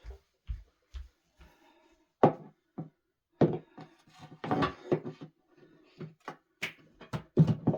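Irregular knocks and clatter of objects being handled and set down, with a few soft low thumps in the first second or so.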